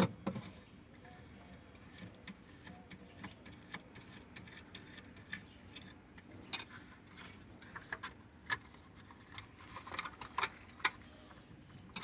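Scattered small metallic clicks and taps of a hand tool and loose parts as the nut holding a refrigerator thermostat is undone, with a sharp click at the very start.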